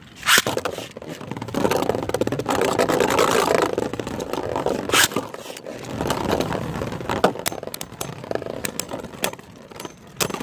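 Beyblade spinning tops launched into a plastic stadium: a sharp hit at the launch, then grinding and scraping as they spin and clash, easing after a few seconds. Sharp clicks of collisions follow every second or two.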